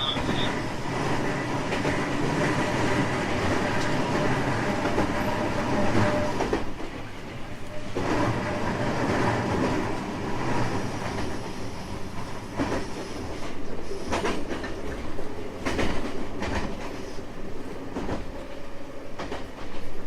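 JR West 225 series 5000-subseries electric train running, its Toyo Denki IGBT VVVF inverter and traction motors giving steady tones over the wheel and track rumble. Wheels click over rail joints now and then, mostly in the second half.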